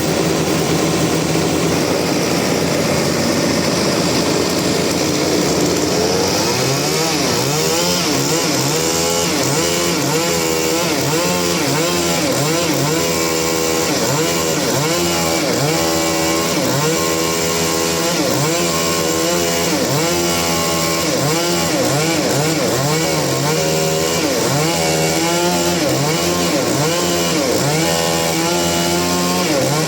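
Engine-driven saw cutting a rain tree (trembesi) log. The engine runs steadily at first, then from about six seconds in its pitch rises and falls about once a second as the blade works through the wood.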